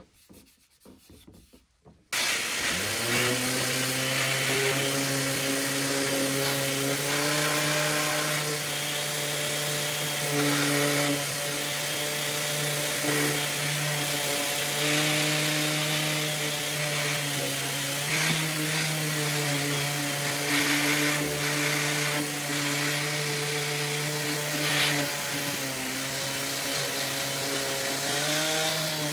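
Electric power sander starting about two seconds in, spinning up and then running steadily against wood, its pitch wavering slightly with pressure.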